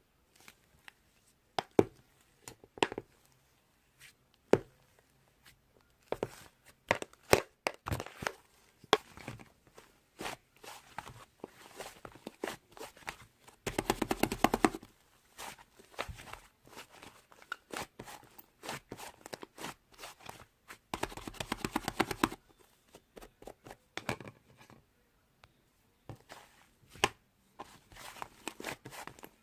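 Slime being pressed, poked and stretched by hand, making sharp clicks and air-bubble pops, with two longer stretches of fast crackling, one about halfway through and another about two-thirds of the way in.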